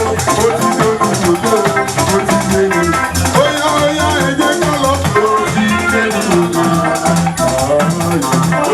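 Live church band playing a worship song without vocals: shakers keep a steady rhythm over guitar and bass lines.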